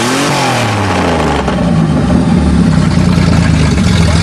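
Chevrolet Cavalier's engine coming down from a rev, its pitch falling over the first second and a half, then idling steadily.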